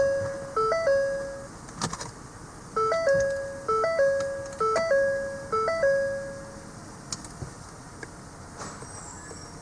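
Ford Explorer's dashboard warning chime repeating about once a second, each chime a quick higher note falling to a fading lower one. Two runs of chimes are broken by a pause and a few sharp clicks. The chimes stop about two-thirds of the way in.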